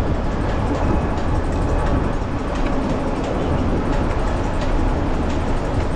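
Steady low rumble of wind buffeting the microphone and a beach cruiser rolling over the sand, with light irregular clicks and rattles from the bike.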